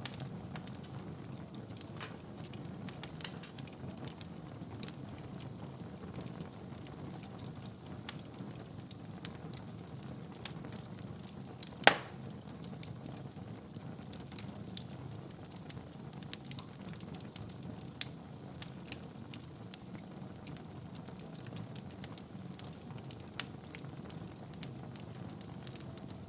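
Wood fire in a fireplace crackling, with scattered small pops over a steady low rumble. One much louder pop comes about halfway through.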